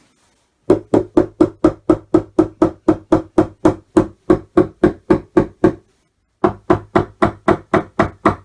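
Mallet knocking wooden dowels into a flat-pack cupboard panel: rapid, even blows about four a second, each with the same hollow wooden note. They stop briefly after about five seconds, then start again.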